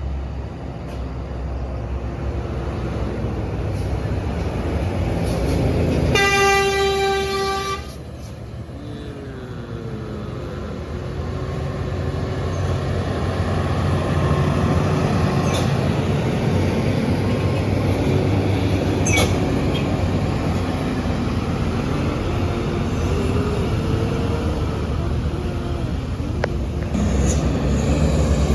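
Diesel truck engines rumbling as they pull up a steep climb, with one horn blast lasting about a second and a half about six seconds in. Afterwards the engine pitch wavers up and down as a truck works the grade.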